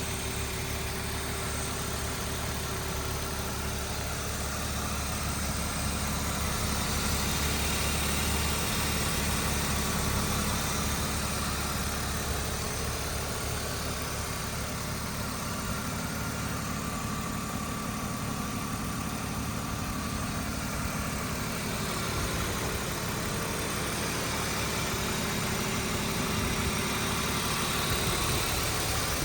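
A 1997 BMW M3's straight-six engine idling steadily.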